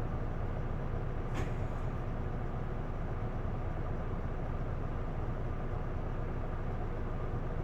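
Isuzu Erga PDG-LV234L2 city bus heard from inside the passenger cabin while under way: a steady diesel engine and drivetrain rumble. One short sharp click comes about a second and a half in.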